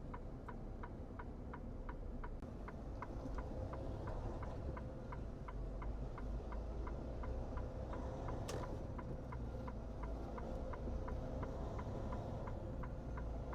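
Turn-signal indicator ticking steadily in a Freightliner truck cab, about three ticks a second, over the low rumble of the engine and road.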